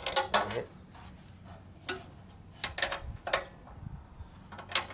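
A few scattered, sharp metallic clicks and clinks of tools and parts being handled during disassembly, about half a dozen spread out with quiet between them.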